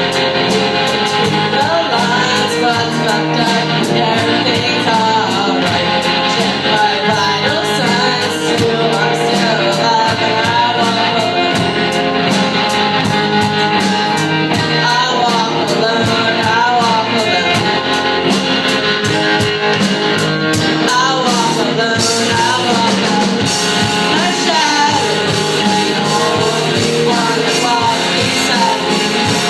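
Live rock band playing: electric guitars and a drum kit keeping a steady hi-hat beat, with a sung vocal line over them. About two-thirds through, the cymbals open up into a fuller wash.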